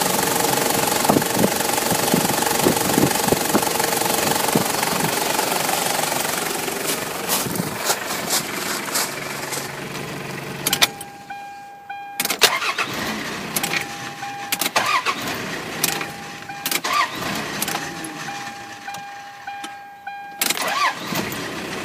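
Toyota 3.0 litre turbo diesel engine running steadily, then dying away between about six and eleven seconds in. After that come scattered clicks and a repeating on-off beep.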